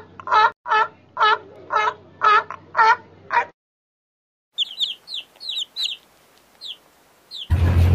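Harbor seal pup calling, about eight short cries at roughly two a second, then stopping. After a pause, chicks peep in quieter, high, short falling chirps, and a loud rushing noise with a low hum starts just before the end.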